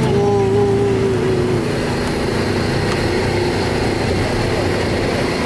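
Off-road 4x4's engine running steadily under load as it crawls along a trail, heard from inside the cabin. A whine slides down in pitch over the first second and a half.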